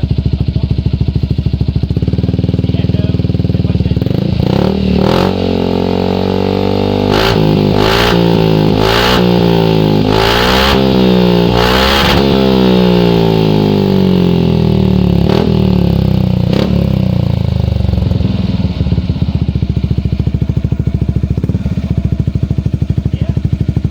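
Motorcycle with a Proformance aftermarket exhaust idling, then revved over and over for about a dozen seconds, the pitch rising and falling with each blip of the throttle, with sharp cracks between revs, before settling back to idle.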